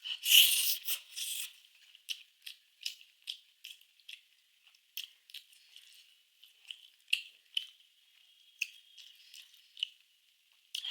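Eating sounds: an irregular run of short clicks and crackles, busiest in the first second and a half, then sparser.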